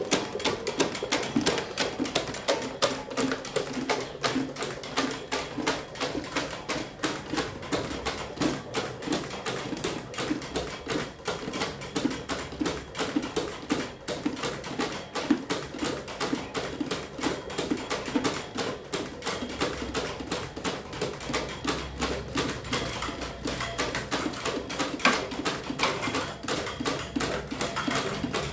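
Electric fan running hard with a fast, continuous clatter of clicks, several a second.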